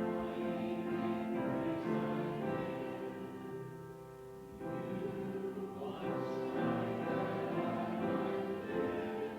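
Congregation singing a slow hymn with instrumental accompaniment, in long held notes, softer for a moment near the middle.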